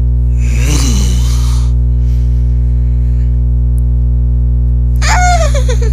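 A man's voice making silly wordless noises in imitation of Pokemon cries: a raspy sound with falling pitch about a second in, then a higher cry that slides down near the end. A loud, steady electrical hum runs underneath throughout.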